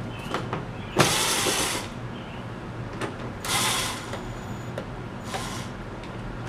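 Hands working on a removed engine wiring harness: a few small clicks and three short scraping bursts, the first and loudest about a second in, a second around the middle and a fainter one near the end.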